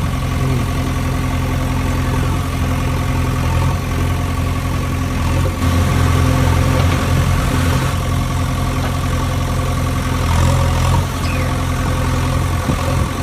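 Heavy diesel engine of a backhoe loader or truck idling steadily, with a stretch of louder rushing noise around the middle.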